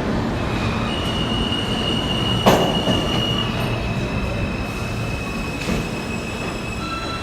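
New York City subway train running through the station, its steel wheels squealing in steady high tones over the rumble, with a sharp clank about two and a half seconds in and a lighter one near six seconds.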